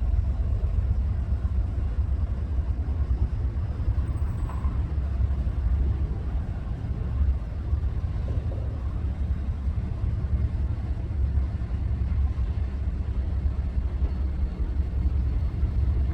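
Norfolk Southern double-stack intermodal freight train rolling past, a steady low rumble of its cars on the rails.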